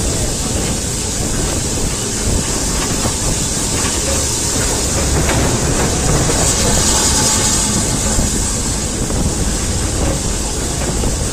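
A heritage railway train running along the track: a steady rumble of wheels on rails with faint clicks and a continuous high hiss over it.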